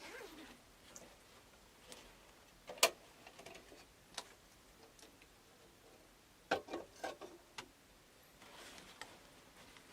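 Scattered sharp clicks and knocks: a loud single knock about three seconds in, another about a second later, and a quick run of several knocks near two-thirds through, over a quiet background.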